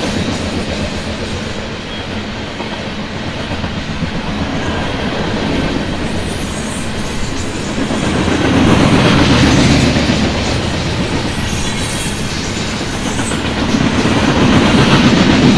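Loaded coal train's cars rolling past, steel wheels running on the rails with a continuous rumble that swells louder about eight seconds in and again near the end.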